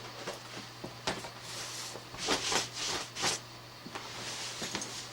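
Faint handling noises: light clicks and brief rustles of an electrical box and wire being handled, over a steady low hum.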